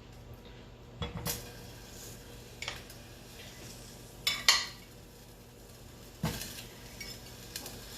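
A utensil knocking and clinking against a saucepan as butter is put in, about five separate knocks, the loudest pair about halfway through.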